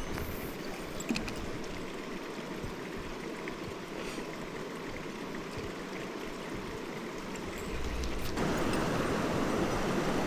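Mountain stream flowing: a steady rush of running water, which becomes louder about eight seconds in.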